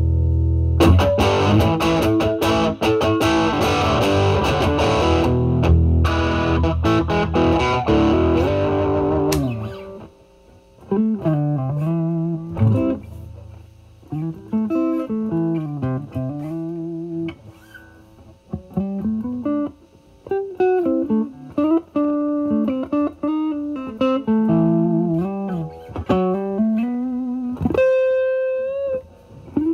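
Stratocaster electric guitar played through a Vertex Steel String Clean Drive overdrive pedal, gain set around 12 to 1 o'clock, into a Marshall Valvestate amp's drive channel. Strummed overdriven chords for about nine seconds, then single-note lead lines with string bends. It ends on a held bent note with vibrato.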